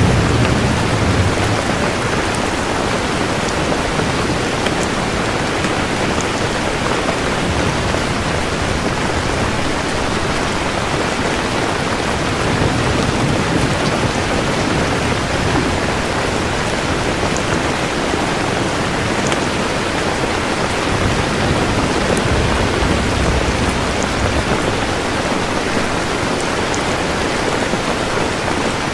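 Steady rain falling, with low rolls of thunder: one fading out at the start and quieter rumbles returning twice, in the middle and past two-thirds of the way through.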